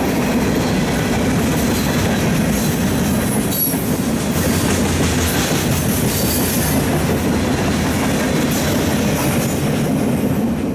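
Train passing close by, its railcars' steel wheels rolling over the rails in a loud, steady rush.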